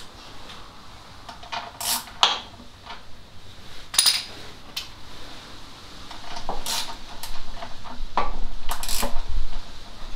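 Metal hand tools and fittings clinking and clanking at irregular intervals, a handful of sharp knocks as spanners, nuts and bolts are handled, with a low rumble building in the second half.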